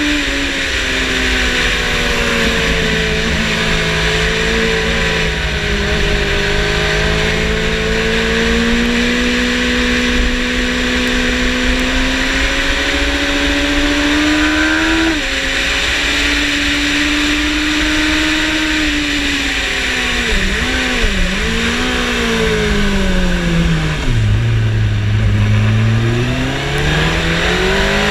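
Yamaha motorcycle engine at speed on track, its note rising and falling with the throttle: high for a long stretch with a sudden jump in pitch about halfway, a few quick dips, then dropping low for a slow corner before climbing again as it accelerates. Steady wind rush runs under it.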